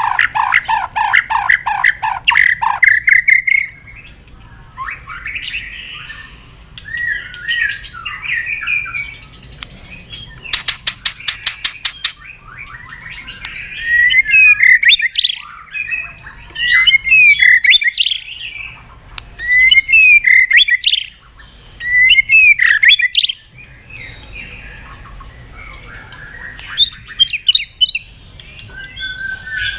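White-rumped shama (murai batu) singing a long, varied song: a run of quick repeated notes, a fast rattling trill about ten seconds in, then loud sweeping whistled phrases with short pauses between them.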